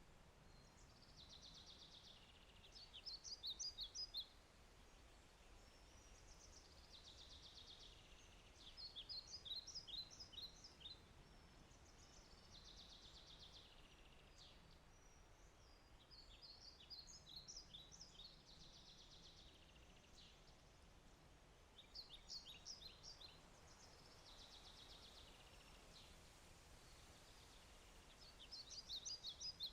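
A songbird singing the same song over and over, about every five seconds. Each phrase is a high buzzy trill followed by a quick run of sharp, clipped notes. Underneath is a faint steady hiss.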